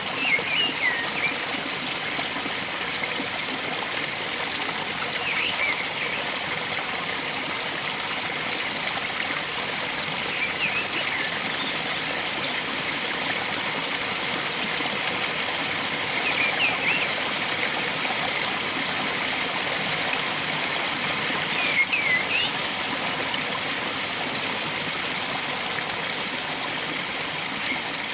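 Flowing stream water running steadily, with a bird giving a short burst of chirps every few seconds, about five times.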